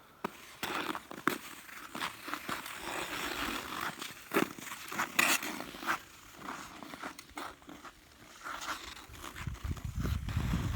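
Ice skate blades scraping and cutting across frozen pond ice, with scattered sharp knocks and clicks. A low rumble builds near the end.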